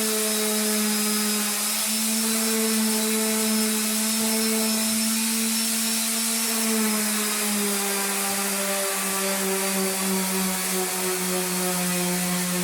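A small electric motor running steadily with a constant hum over a hiss; its pitch sags slightly about two-thirds of the way through.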